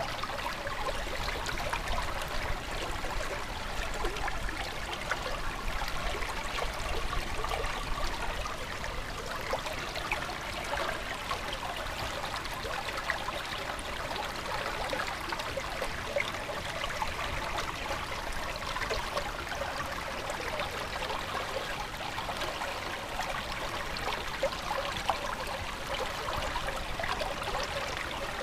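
Running water in a stream, a steady babble of small trickles and splashes.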